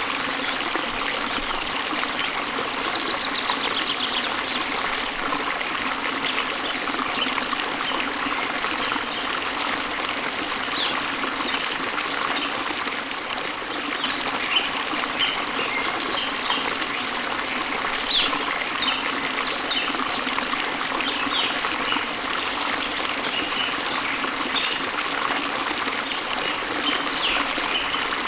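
A waterfall's water running steadily, a dense even rush. Small birds chirp briefly now and then above it, more often in the second half.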